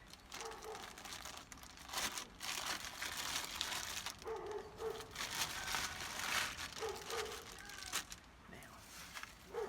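Crinkling and rustling of material being handled, in several bursts, with a few short faint tones mixed in.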